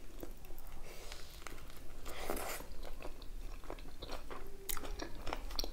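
A woman biting into and chewing a mouthful of homemade chicken shawarma wrapped in lavash, with small wet mouth clicks.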